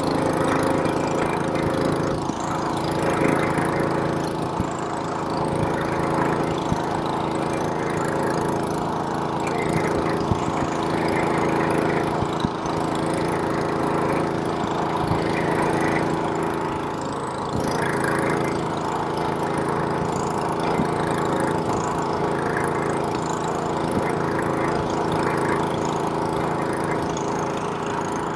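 Small-engine snowblower running steadily while throwing snow, its engine note holding even, with small knocks and scrapes scattered through it.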